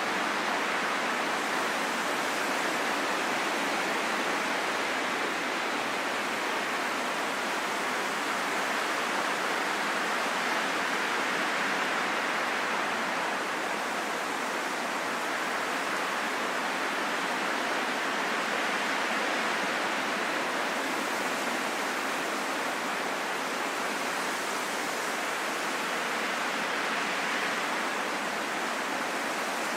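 Wind blowing as a steady, soft rushing noise with slow, slight swells in strength.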